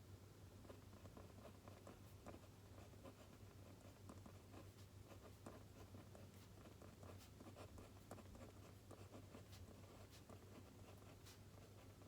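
Faint writing on paper: quick, irregular scratching strokes and small taps of a pen or pencil tip, over a steady low hum.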